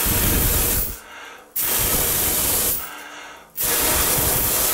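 A person blowing hard three times, each blow about a second long, at a lit USB plasma arc lighter in an attempt to blow out its arc. The breath rushes over the microphone as a loud racket.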